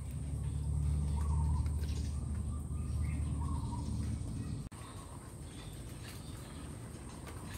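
Birds calling in short phrases repeated every second or so, over a steady thin high tone. A low rumble on the microphone is the loudest thing for the first four and a half seconds, then cuts off suddenly.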